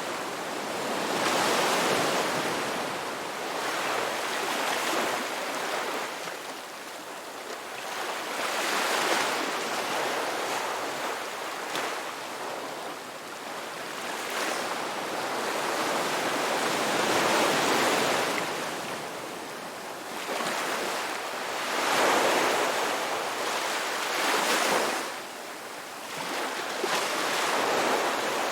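Ocean surf: waves breaking and washing up, a rushing noise that swells and fades every few seconds.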